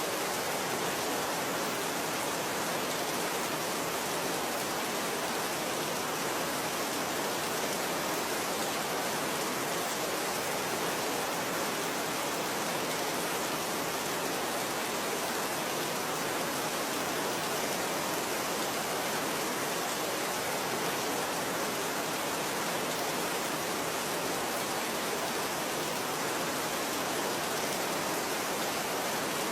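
Steady rainfall, a dense even hiss of rain with no single drops standing out.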